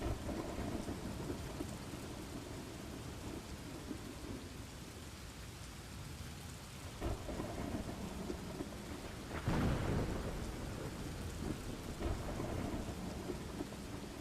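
Steady heavy rain with rolling thunder: low rumbles swell several times, the loudest roll of thunder about two-thirds of the way through.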